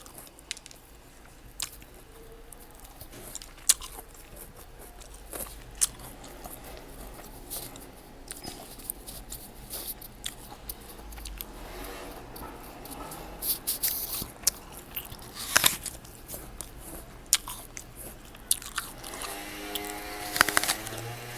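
Close-miked eating of fresh fruit: crisp bites and crunching followed by wet chewing, in irregular sharp clicks. A short pitched sound comes in near the end.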